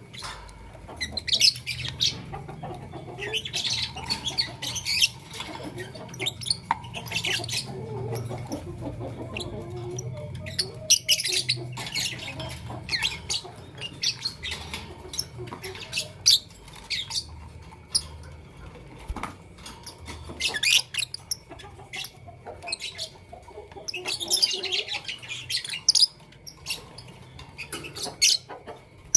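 Fischer's and masked lovebirds chirping: flurries of shrill, rapid, high-pitched chirps and squeaks coming in clusters every few seconds, with scattered sharp clicks between them.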